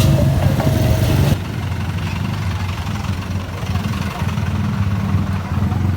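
Music cuts off suddenly about a second in, leaving the steady low rumble of a running vehicle engine.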